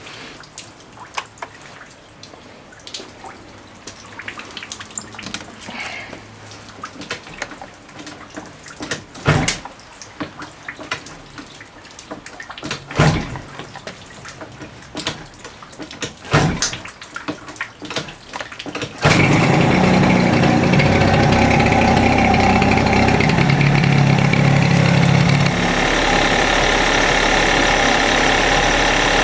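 Scattered clicks and knocks with a few loud sharp strokes, then, about two-thirds of the way in, the Suzuki Address 110 scooter's single-cylinder four-stroke engine starts and runs at a fast idle, settling to a lower note near the end. The engine is freshly started and cold.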